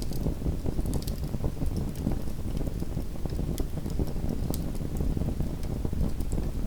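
Small wood fire in a home fireplace crackling: scattered sharp pops and snaps over a steady low rumble.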